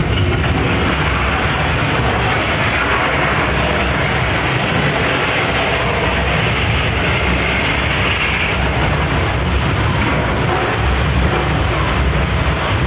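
Loud, steady rumbling and rattling inside the Earthquake ride's subway car, the noise of the simulated tremor shaking the train and station set.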